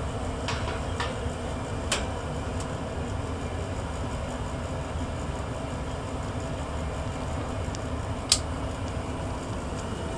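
1994 Tempstar SP80 gas furnace running steadily. A few light clicks come in the first two seconds and a sharper clank about eight seconds in as the furnace's metal front cover is put back on.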